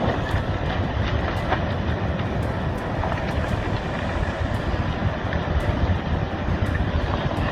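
Landslide rumbling: a steady heavy roar of moving earth and debris, with scattered sharp cracks and snaps through it.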